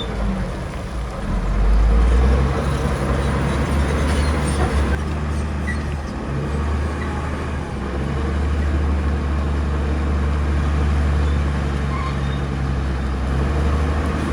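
Diesel engine of heavy earthmoving machinery running steadily with a deep hum, rising briefly in loudness about two seconds in.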